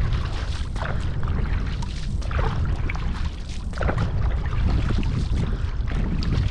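Canoe paddle strokes splashing in the water every second or so, over a steady low rumble of wind buffeting the microphone.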